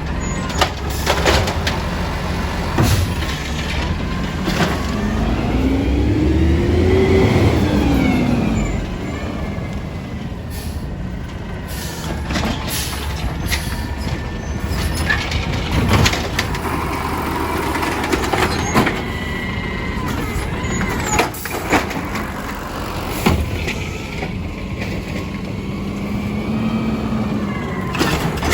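Garbage truck working a pickup. Its engine revs up and back down to drive the hydraulics, once for about four seconds early and again more briefly near the end. Between the revs come a string of metallic bangs and knocks and hisses of air-brake release.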